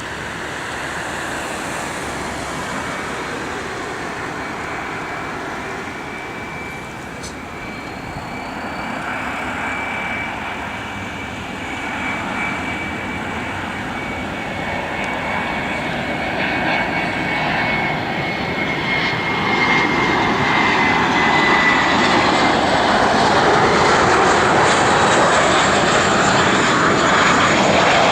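Boeing 737-300 on its landing approach, its CFM56-3 turbofan engines growing steadily louder as it comes in. A high steady whine sits over the jet roar and dips slightly in pitch a little past the middle, and the roar is loudest near the end.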